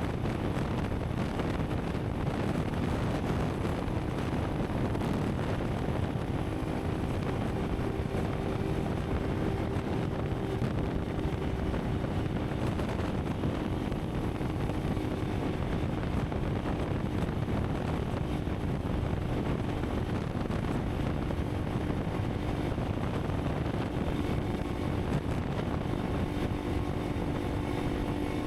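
Honda CRF300 Rally's single-cylinder engine running steadily while the bike is ridden, mixed with a constant rush of wind and road noise.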